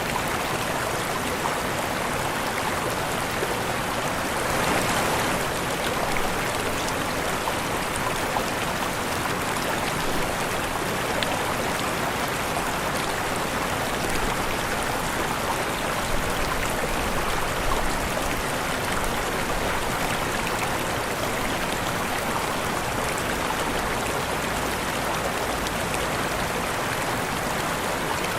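Waterfall: falling water splashing in a steady rushing noise, with a brief swell about five seconds in.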